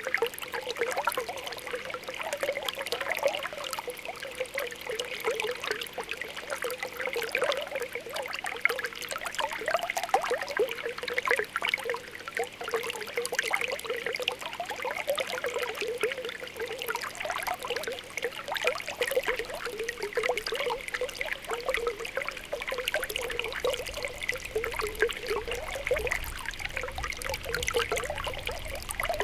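Spring water welling up from the ground, a steady stream of small popping, bubbling plops over a continuous trickle.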